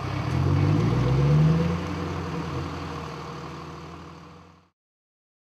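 Saleen Mustang's V8 engine revving once, rising in pitch for about a second and a half, then settling back to a steady idle that fades out about four and a half seconds in.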